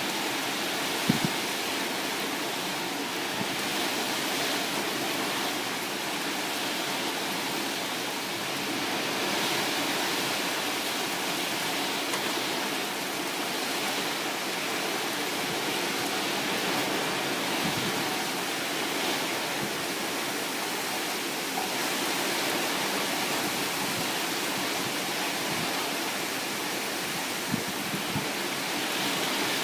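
Steady hiss of heavy typhoon rain pouring down, with a few short knocks about a second in, midway and near the end.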